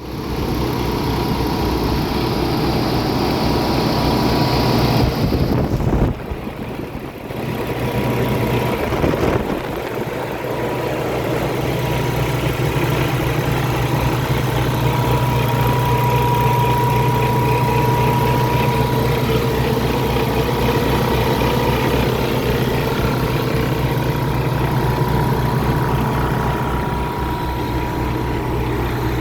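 Paccar MX13 diesel engine of a 2016 Kenworth T680 truck tractor idling steadily. A hiss that runs over it stops about five seconds in, and the sound dips briefly around six to eight seconds before the steady idle returns.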